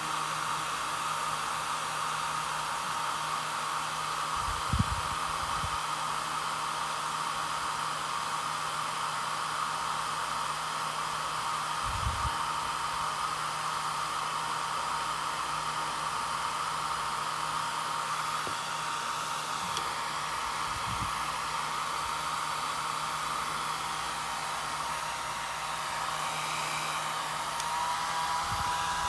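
Steady whir of a small electric blower running without a break, with a few soft low thumps about 5, 12 and 21 seconds in.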